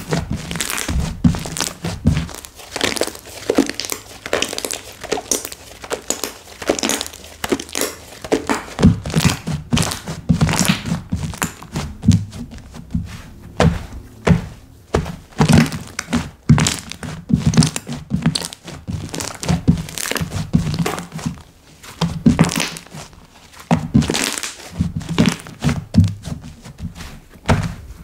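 Slime being squeezed and poked by hand, giving a dense, irregular run of small pops and clicks.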